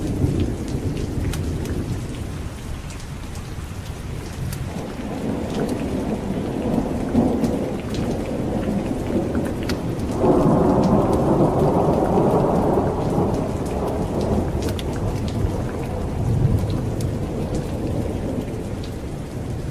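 Steady rain with low rumbling thunder throughout; a louder roll of thunder swells up about halfway through and fades over a few seconds.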